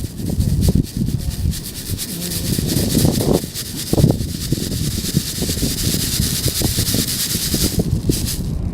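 Wind buffeting the microphone with an uneven low rumble, over a steady high hiss that cuts off near the end.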